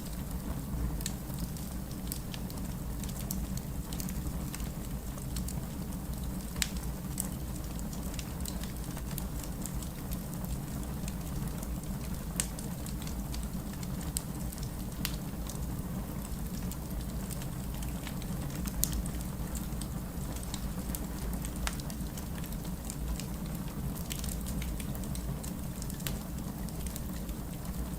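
Steady rain mixed with a wood fire crackling, with scattered sharp pops from the fire over the continuous low wash of the rain.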